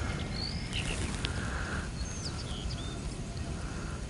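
Small songbirds chirping: a scatter of short high whistled notes, some rising and some falling, over a low steady rumble, with a short rustle just over a second in.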